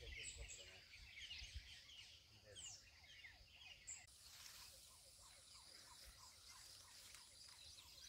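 Faint chirping and twittering of baya weavers. About four seconds in, the sound changes to a run of short falling notes, about two a second, over a steady hiss.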